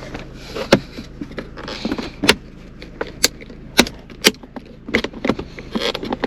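Plastic armrest lid cover and clips on an Acura TSX center console being pried and worked loose by hand, with a string of sharp, irregular clicks and snaps about once or twice a second over a steady low hum.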